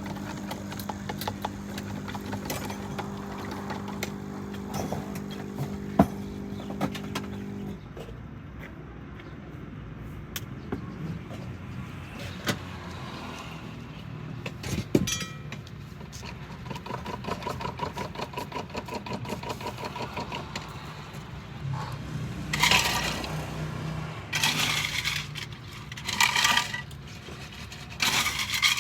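A steady machine hum that cuts off suddenly about eight seconds in, with scattered clicks and clinks throughout, then a run of short loud hissing bursts near the end.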